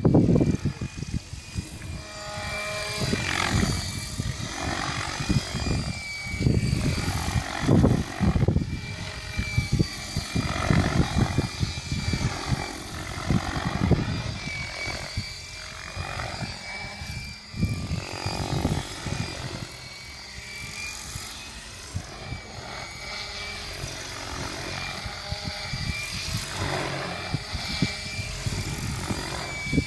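Mikado Logo 600 electric RC helicopter in flight: the steady high whine of its motor and drivetrain over the whoosh of the main rotor blades. The sound swells and fades as the helicopter moves about.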